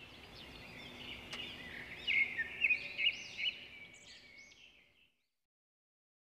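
Birds chirping and twittering: a busy run of short, high chirps, loudest in the middle, fading out near the end.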